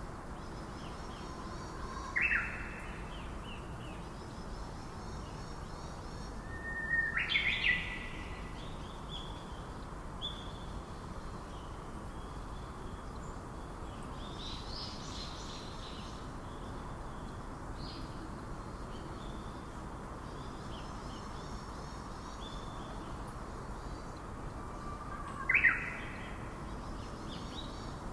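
Forest birds calling: three loud, sharp whip-like calls, one early, a double one a few seconds later and one near the end, with fainter high trills from smaller birds between them.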